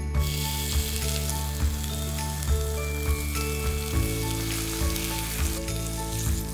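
Lamb chops sizzling in hot oil in a frying pan, a dense hiss that starts suddenly as they go into the pan. Under it, background music with a soft, steady beat.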